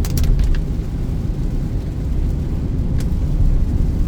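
Steady low rumble of a Peugeot 2008 climbing a steep road in heavy rain with the air conditioning on: engine, wet tyres and road noise as heard inside the cabin. A few sharp ticks come in the first half second and one more about three seconds in.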